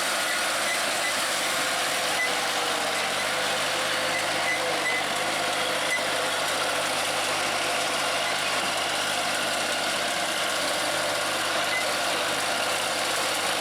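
New Holland tractor engine running steadily while working through deep paddy-field mud.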